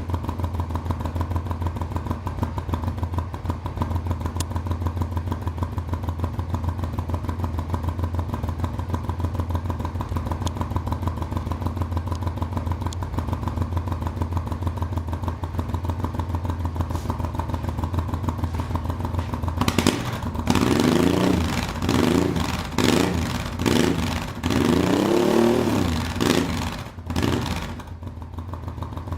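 Honda XRV750 Africa Twin's V-twin engine idling steadily through a new exhaust with its dB-killer baffles fitted. About two-thirds of the way through it is revved several times in quick blips, each rising and falling, then settles back to idle near the end.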